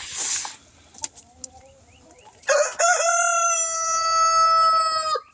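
A rooster crowing once, starting about halfway through: the call rises and then holds one long steady note before cutting off sharply. Some faint clucking comes before it.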